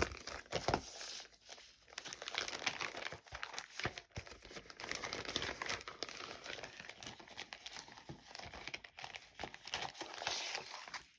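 Packaging being handled, crinkling and rustling continuously with many small crackles, as paper doll items are unpacked.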